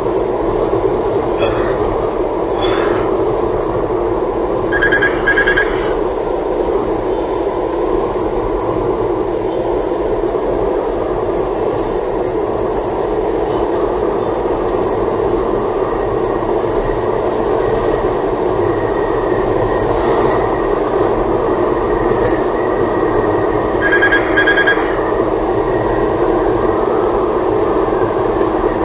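Steady road and tyre noise with engine hum inside the cabin of a Toyota Tank minivan on the move. Two short high squeaks stand out, one about five seconds in and one near the end.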